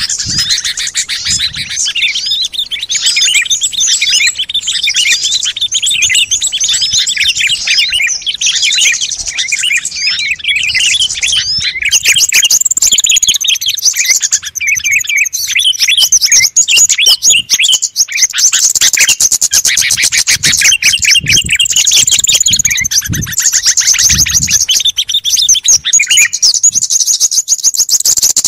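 A dense chorus of many small songbirds chirping and trilling rapidly over one another: a bird-lure recording meant to draw in small wild birds.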